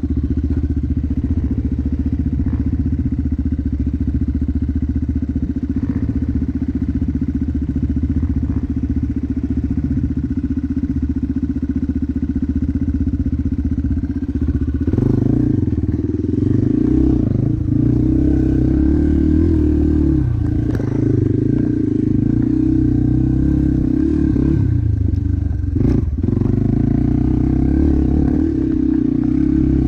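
Motocross motorcycle engine running loud and continuous. From about halfway through the engine note rises and falls more with throttle changes, with a few short knocks.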